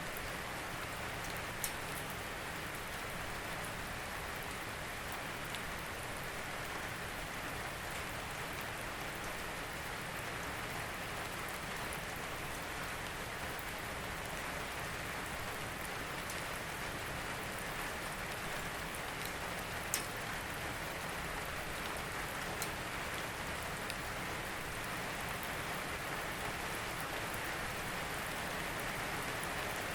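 Steady rain falling, an even hiss of drops on a surface, with a few sharper single drop ticks, the loudest about 2 seconds in and about 20 seconds in.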